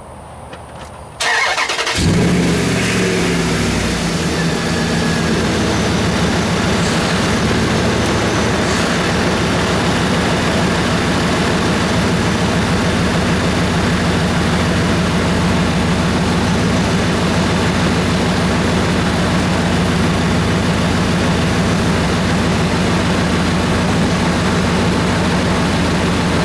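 Dodge Ram 2500's Hemi V8 being started from cold: the starter cranks about a second in, the engine catches a moment later and then idles steadily.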